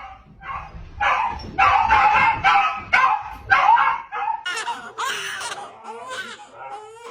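A dog talking back in a quick string of short barks and woofs, about eight in the first four seconds, then softer, higher calls.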